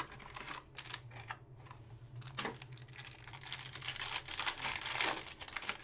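Trading-card packs being opened and the cards handled: a string of crinkles, flicks and sliding swishes of pack wrappers and card stock, busier from about the middle onward.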